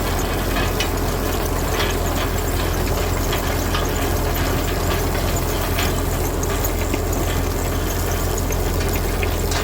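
An engine running steadily at an even pace, with scattered light clicks and rattles over it.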